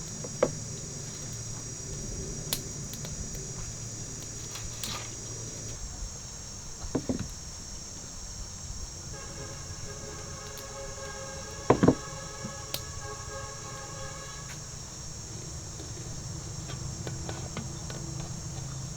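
Insects chirring steadily in a high-pitched drone, with a few sharp knocks and a faint steady pitched hum in the middle.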